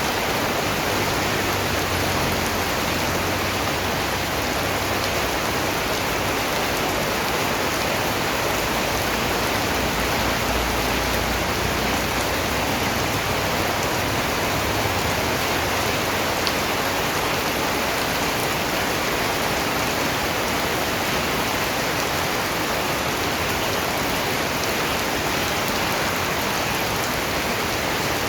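Steady rain falling: an even hiss of many raindrops that holds unchanged throughout.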